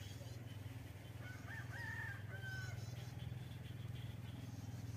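A single drawn-out bird call, about a second long, rising then holding and falling, heard faintly about a second and a half in, over a steady low hum and faint repeated high chirps.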